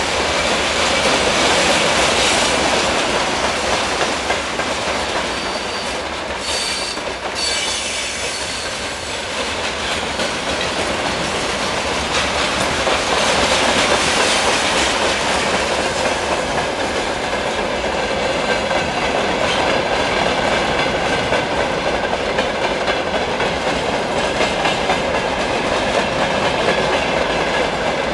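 Freight train rolling past: a steady clatter of wagon wheels over the rail joints, with some high wheel squeal.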